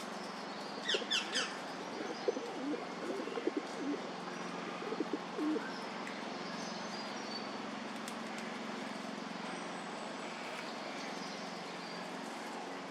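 Birds calling: three quick high notes that fall in pitch about a second in, then a run of short low notes for a few seconds, over a steady low background hum.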